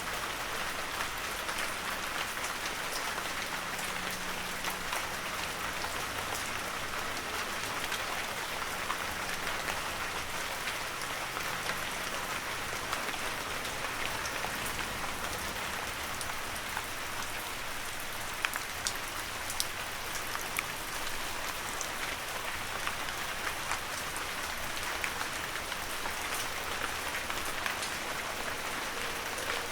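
Heavy rain falling steadily, a dense even hiss with many individual drops ticking and pattering on surfaces.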